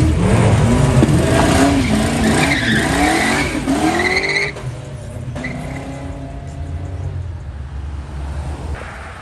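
Fox-body Ford Mustang accelerating hard, its engine pitch rising and falling through several revs, with tires squealing. About halfway in it drops off to a quieter, steady engine sound as the car pulls away.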